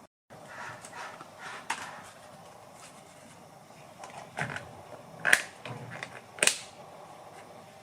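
Irregular sharp clicks and knocks, a few faint ones early and two louder knocks about five and six and a half seconds in.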